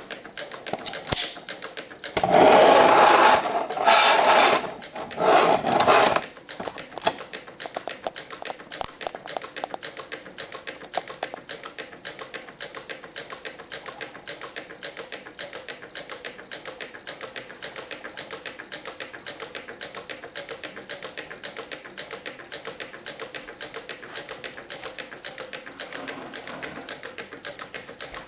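Meccano Stirling engine running, its metal crank, linkages and output gears making a rapid, even clatter. Several louder sounds cover it for a few seconds in the first quarter, then the clatter carries on alone.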